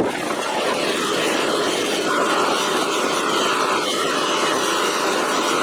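Electric bench buffer running steadily with a metal adjustable wrench pressed against its compound-loaded buffing wheel, a hiss of polishing friction over the motor's whir; a higher steady tone joins about two seconds in, as the pressure on the wheel changes.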